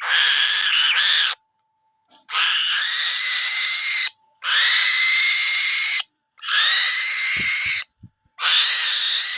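A bird of prey giving long, raspy hissing screeches, five in a row, each lasting one to two seconds with short breaks between them. A couple of dull low thumps sound near the end.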